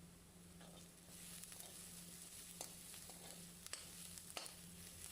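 Chopped onions, green chillies and garlic sizzling faintly in hot oil in a kadhai while being sautéed, with a few light clicks of the spatula stirring against the pan.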